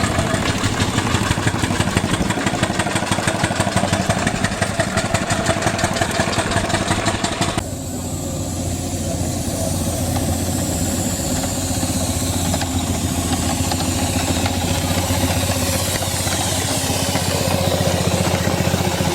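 Engines running steadily. The first has a rapid, even beat; about seven and a half seconds in it cuts to a steadier hum with sweeping high-pitched overtones.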